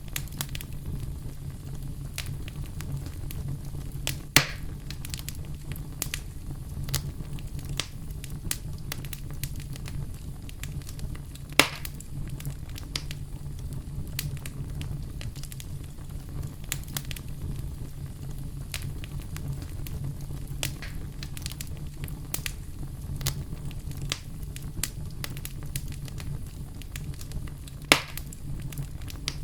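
Campfire crackling: a steady stream of small snaps over a low, even rumble, with three louder pops about 4 s, 12 s and 28 s in.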